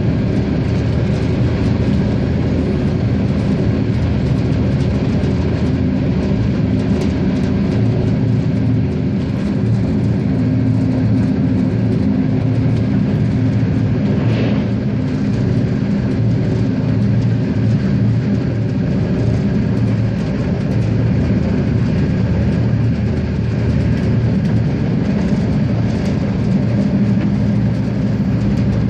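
RegioSprinter diesel railcar running, a steady low engine drone with rail and running noise. A short higher-pitched squeal comes about halfway through.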